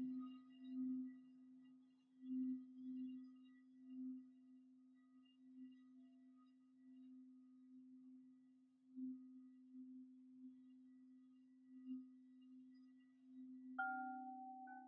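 Singing bowl sounding one low, steady tone that swells and fades unevenly. Near the end a higher-pitched bowl is struck and rings over it.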